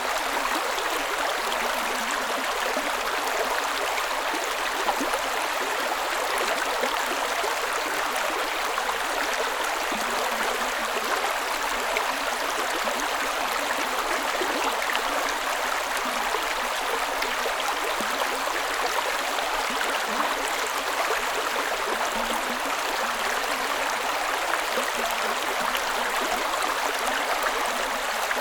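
A creek running over rocks, with steady burbling and splashing.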